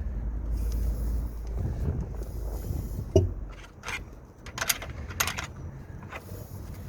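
Engine running with a low rumble and scattered metallic clacks, the loudest about three seconds in. This is the rattle of a slack timing chain whose tensioner is at maximum adjustment.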